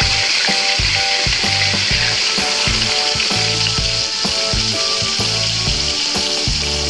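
Unbattered tempe slices deep-frying in hot oil in a steel wok, giving a steady sizzle. Background music with a repeating bass line and melody plays underneath.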